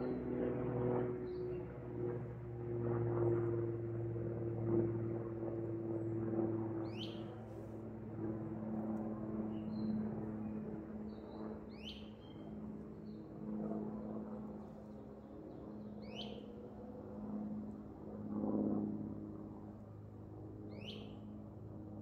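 A bird repeats a short down-slurred call four times, about every four to five seconds, with fainter chirps in between. Under it runs a steady low hum of several held tones that slowly fades.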